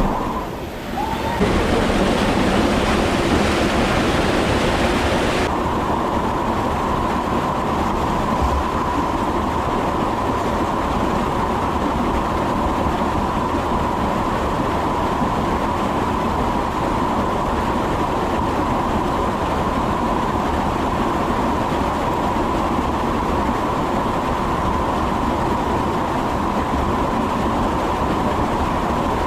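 Steady, loud rumbling ride noise of a moving train, with a faint steady whine held throughout.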